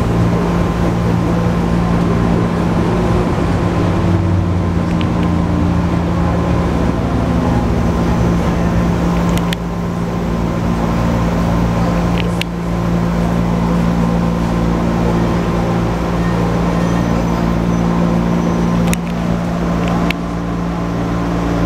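Running noise inside a JR 205-series 1000-subseries electric train in motion: a steady mechanical hum with rumble from the running gear, and a few sharp clicks spaced several seconds apart.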